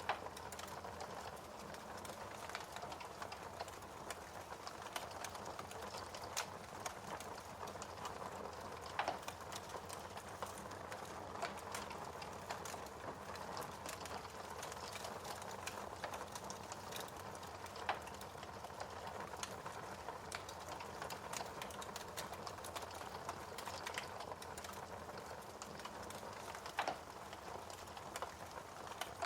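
Wood fire crackling steadily: a soft hiss full of small snaps, with a few louder pops.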